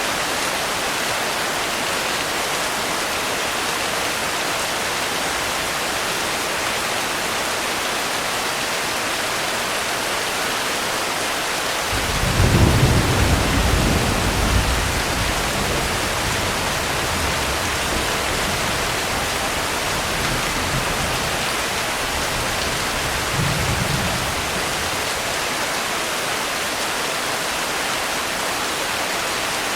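Steady rain falling, with a low rumble of thunder rolling in about twelve seconds in and fading over a few seconds, and a second, shorter rumble later on.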